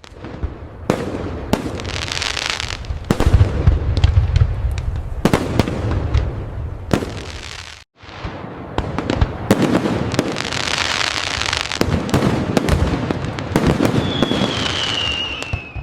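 Fireworks display: rapid aerial bangs and crackles over deep booming rumbles, with a sudden brief cut-out about halfway through and a falling whistle near the end.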